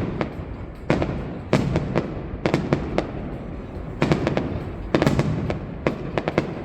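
Aerial fireworks bursting overhead: many sharp bangs and crackles coming in clusters, several a second at the busiest moments, over a continuous rumble.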